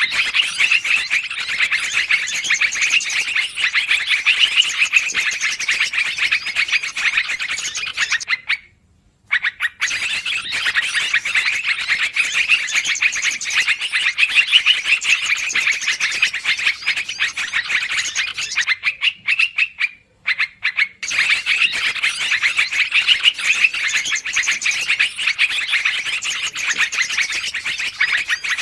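Yellow-vented bulbul (trucukan) lure call played back as a dense, noisy run of chattering calls. It comes in stretches of about ten seconds, with short breaks about nine and twenty seconds in, like a repeating loop.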